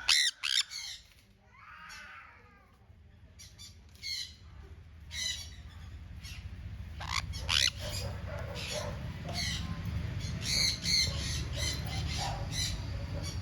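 Sun conures squawking: a few loud, high-pitched screeches right at the start, then repeated short harsh calls. A low steady rumble underneath grows louder from about halfway.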